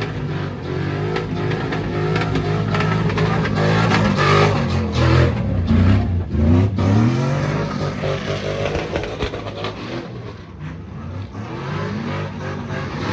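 Car engine revving hard, its pitch climbing and falling several times. It is loudest around the middle and eases off toward the end.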